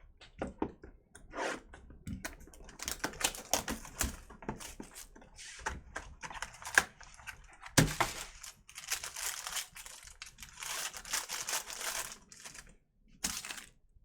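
Trading cards and their packaging being handled: a run of sharp clicks and taps, with a couple of longer rustling, tearing stretches partway through.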